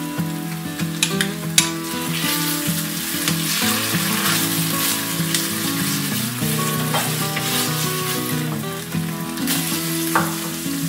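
Chopped onion and tomato paste sizzling in an Instant Pot's stainless inner pot on sauté, stirred with a wooden spoon, with a few short knocks and scrapes against the pot. Background music with held notes plays under it.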